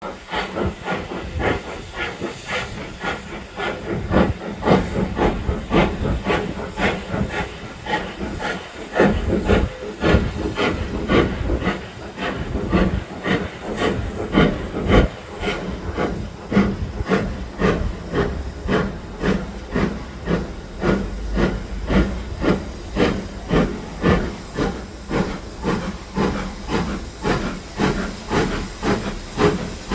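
Ivatt Class 2 tank engine's steam exhaust chuffing as it pulls away, the beats quickening steadily as it gathers speed, with a steady hiss of steam.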